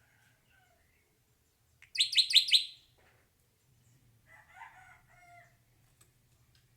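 Hair-crested drongo calling: a quick run of about five loud, sharp, high notes, followed about two seconds later by a softer, lower warbled phrase.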